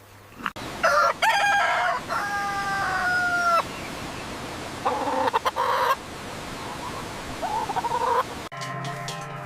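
A rooster crowing: one long crow with a held, slightly falling note, then two shorter calls. The crowing cuts off suddenly near the end.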